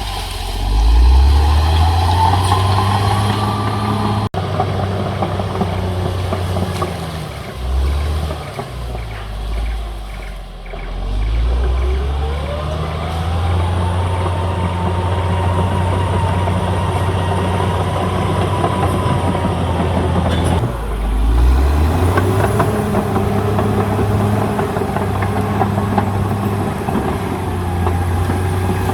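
Caterpillar D6R XL bulldozer's diesel engine working, its note dropping and picking up again twice as the load changes. A whine climbs and holds while the engine pulls. There is one sharp click about four seconds in.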